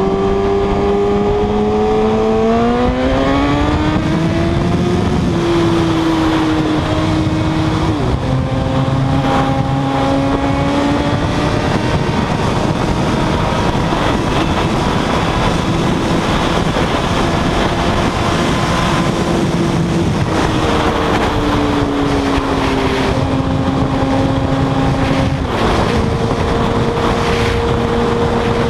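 Suzuki GSX-R1000 inline-four engine under way at highway speed, heard from the rider's seat over wind rush. It revs up hard a few seconds in, then holds a steady pitch, with sudden pitch changes at gear shifts about a third of the way in and again near the end.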